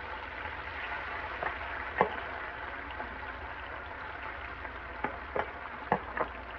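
Onions and tomatoes sautéing in oil in a pan, a steady sizzle, with a handful of sharp clicks from a wooden spoon knocking against the pan as they are stirred.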